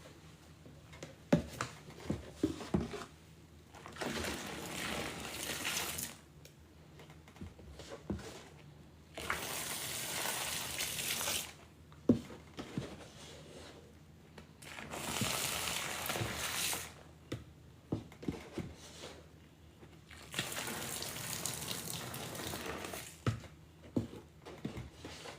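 Water poured in four separate streams, each about two to three seconds long, splashing into a bucket during a sponge rinse. Small knocks and handling clicks come between the pours.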